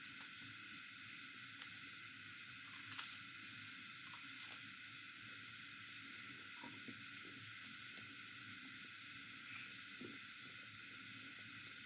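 Faint, steady insect chirping, pulsing about three times a second, typical of crickets. A few small clicks and wet mouth sounds of eating come through, the sharpest about three seconds in.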